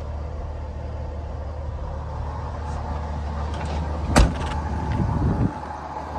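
A pickup truck's engine idling steadily, with a door slamming shut about four seconds in, followed by a short rattle.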